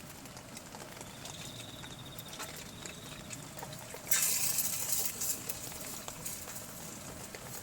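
Heavy rain pattering on the camp with many small drop ticks, a thin high trill from about one to three seconds in, and a sudden loud hissing rush about four seconds in that fades within about a second.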